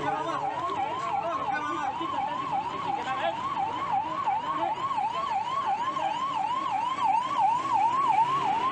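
A siren sounding in a fast yelp: a tone sweeping up and down about three to four times a second, without a break.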